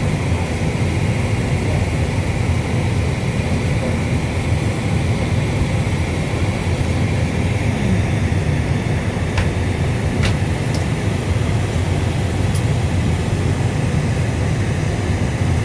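Steady cabin noise inside a Boeing 757 before engine start: a low rumble with an even hiss from the cabin air supply, and a couple of faint clicks about ten seconds in.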